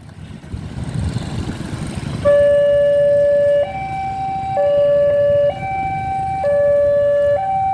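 Railroad level-crossing warning alarm, an electronic two-tone alternating between a low and a high note about every second and a half, starting about two seconds in over a low rumble. It signals an approaching train and the barrier gates closing.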